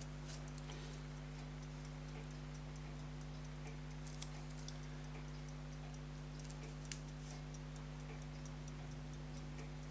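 Steady low electrical hum under a few faint, light, irregular clicks of small metal watchmaker's tools on the watch, clustered about four seconds in and again near seven seconds.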